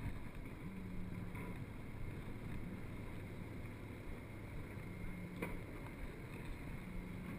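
Yamaha MT-07's parallel-twin engine running at low revs as the bike slows to a stop, then idling steadily.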